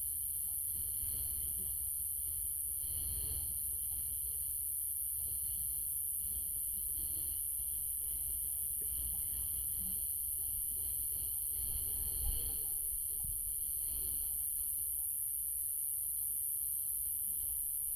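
Steady night chorus of crickets and other insects, a continuous high-pitched trilling over a low rumble, with one brief bump about twelve seconds in.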